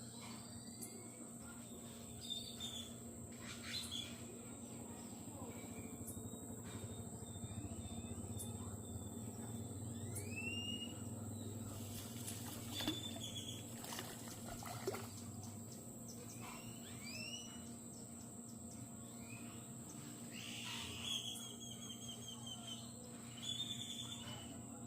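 Tropical outdoor wildlife ambience: a steady high-pitched insect drone runs throughout, with short chirping and whistling calls scattered over it. Two louder calls come near the end.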